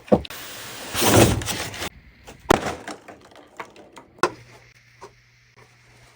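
Cardboard box and packaging being handled: a few sharp knocks and a noisy sliding scrape about a second in, then lighter taps and rustles.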